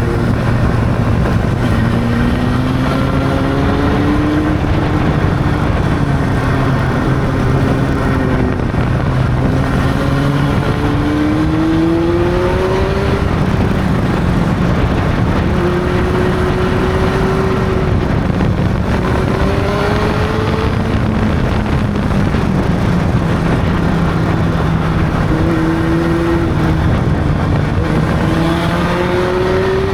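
Honda CB600's inline-four engine under way. The revs climb and fall back several times as it pulls through the gears, with steady cruising stretches in between, over road and wind noise.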